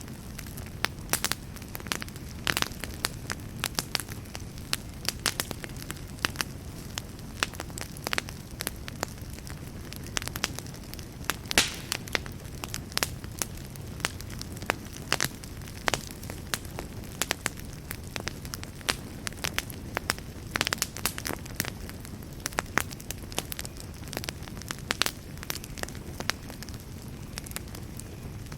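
Wood fire burning in a fireplace: frequent irregular sharp crackles and pops over a steady low rush of the flames.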